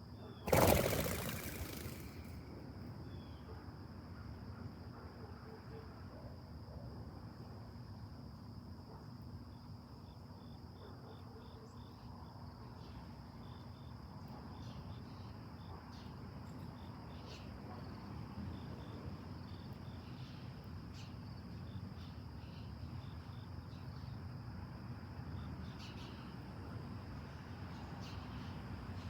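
Steady, high-pitched drone of a late-summer insect chorus, with faint short chirps now and then. About half a second in, a sudden loud burst of noise that fades over a second and a half.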